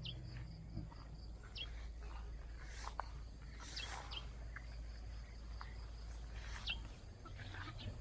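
Birds chirping here and there, short high calls every second or so, over a faint low steady hum that drops away about a second before the end.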